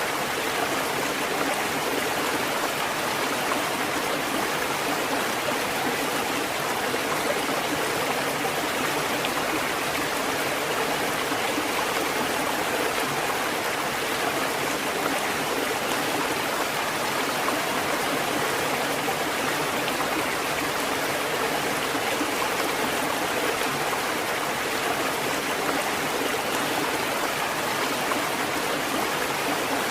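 Water fountain running, a steady even rush of flowing water with no breaks or knocks.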